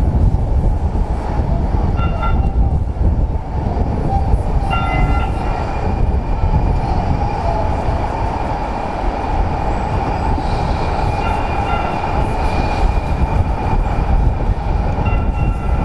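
A train running past with a loud, steady rumble. Brief high-pitched tones come and go four times over it: about two seconds in, about five seconds in, for a couple of seconds in the middle, and near the end.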